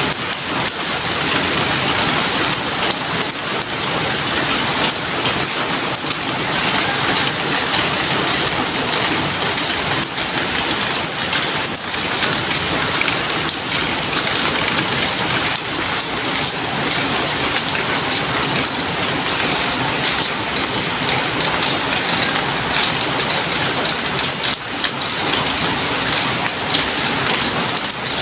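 Heavy rain falling steadily: a dense, even hiss of countless drops with no breaks.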